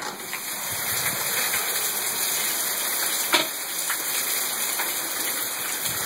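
Heavy hurricane rain pouring steadily, with a single sharp tap about three seconds in.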